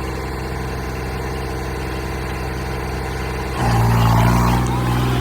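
Tractor engine running steadily, then picking up and getting louder about three and a half seconds in.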